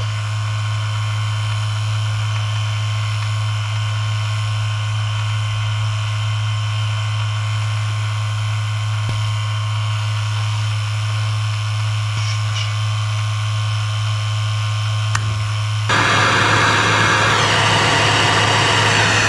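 Small refrigeration vacuum pump running with a steady electric hum. About 16 seconds in, a louder hiss joins it for about three seconds.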